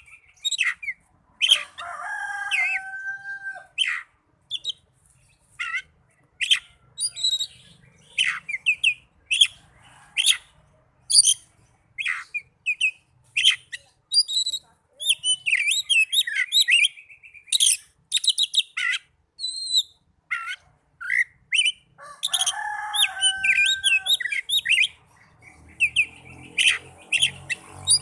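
Oriental magpie-robin singing: a varied song of quick chirps, trills and whistled notes in short phrases with brief pauses between them, and a couple of lower held whistles.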